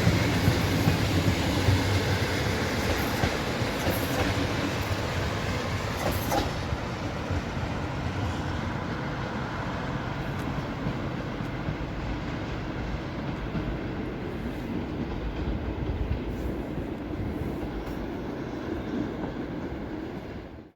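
Passenger train hauled by an SU42 diesel locomotive running along the rails through the station, a steady rumble that slowly gets quieter.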